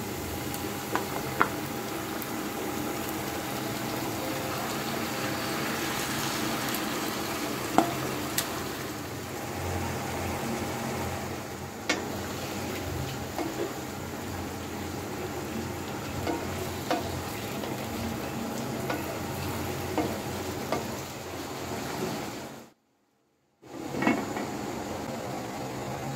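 Onions, tomatoes and whole spices sizzling in hot oil in a non-stick pan, stirred with a wooden spatula that now and then clicks and knocks against the pan; later beef pieces frying and being stirred in the same pan. The sound cuts out briefly about 23 seconds in, and a glass lid is set on the pan just after.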